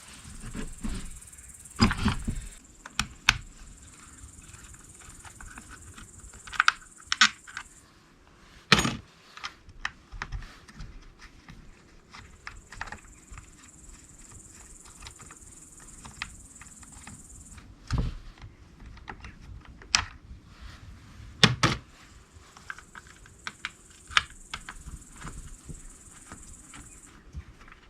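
Irregular clicks, taps and a few heavier knocks of tools and small parts being handled while working on a Chinese chainsaw. A high, steady hiss comes and goes in stretches of several seconds.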